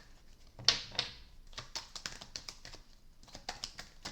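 Tarot cards being handled and laid out: a string of light clicks and taps, with one sharper snap just under a second in.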